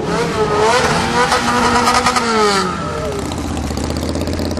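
Car engine revving, its pitch rising and falling over a couple of seconds, then dropping back to a low, steady run about three seconds in.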